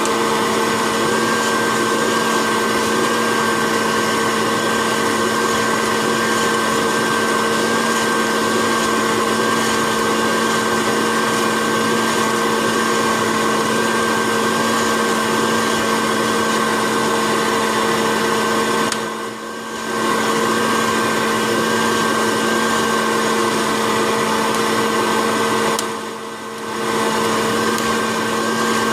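Hot-air popcorn popper's electric fan motor running steadily with a steady whine while roasting coffee beans; the sound dips briefly twice, about two-thirds of the way through and again near the end.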